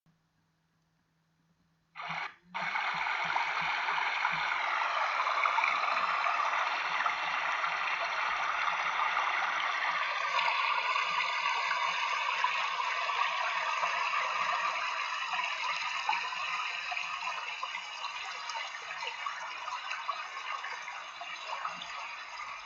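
Running water of a river and a waterfall, a steady rushing hiss. It starts about two seconds in, breaks off briefly just after, and changes character about ten seconds in.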